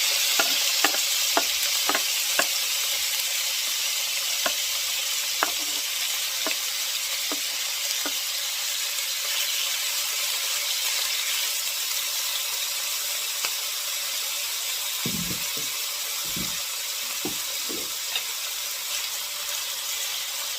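Cut-up chicken thighs sizzling in hot vegetable oil in an electric skillet as they brown. The sizzle is a steady hiss with sharp pops and crackles over the first several seconds, and it eases a little toward the end, where a few dull knocks come through.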